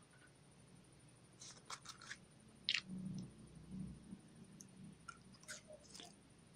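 Putty slime being kneaded and mixed by hand: faint, scattered sticky clicks and pops, with soft low thumps in the middle.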